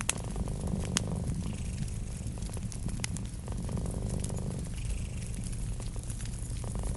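Cat purring in slow cycles over a low steady rumble, with a few sharp pops of a crackling wood fire: one at the start, one about a second in and one about three seconds in.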